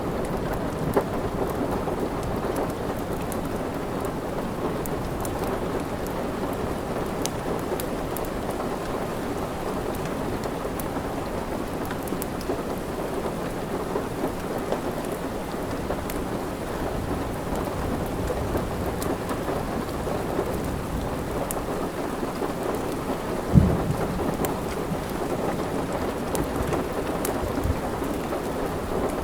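Steady rain with a low rumble, mixed with a wood fire crackling in small scattered pops. A single sharper low thump comes near the end.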